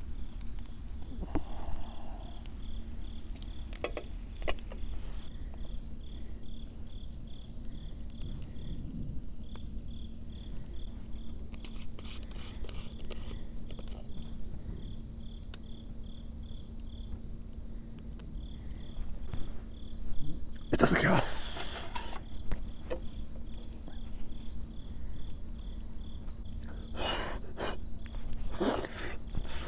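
Crickets and other autumn insects chirping: one steady high trill, with a second insect pulsing in short, evenly spaced chirps. Scattered sharp clicks, and a louder noise lasting about a second and a half about two-thirds of the way through.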